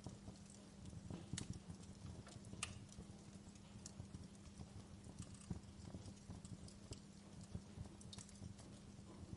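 Wood fire crackling faintly: irregular sharp pops and snaps, a couple of louder ones in the first few seconds, over a low rumble of the burning logs and a faint steady hum.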